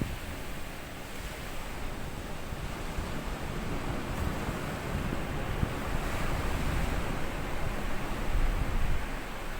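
Small sea waves breaking and washing over a sand beach, the wash swelling through the middle. Wind buffets the microphone in low rumbles, strongest near the end.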